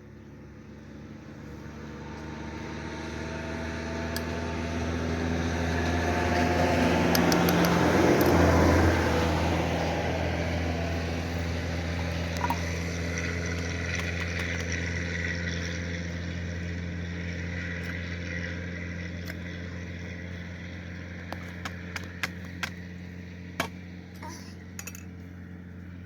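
A motor vehicle passing by: its engine grows louder, peaks about eight seconds in with a drop in pitch, then slowly fades. A few sharp clinks come near the end.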